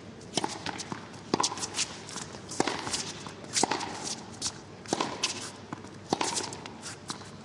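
Tennis rally: the ball struck by rackets about once a second, about seven hits back and forth, with lighter ticks between the hits.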